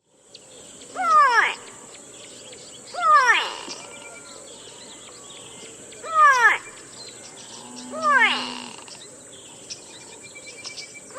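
A bird calling repeatedly, a short downward-sliding cry about every two to three seconds, four times with a fifth starting at the end. A steady high insect buzz runs underneath.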